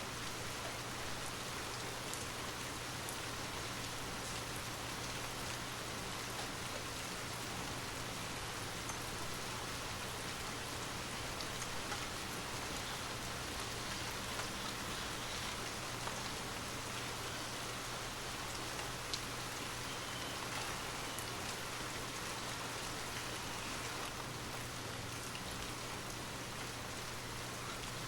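Steady rain falling: an even, unbroken hiss with scattered sharper drop taps.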